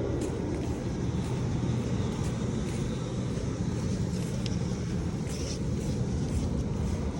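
Steady low rumble of a bicycle ride: wind on the microphone and tyres rolling on the towpath, with faint scattered ticks.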